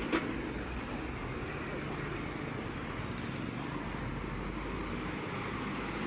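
An engine running steadily, with a short knock just after the start.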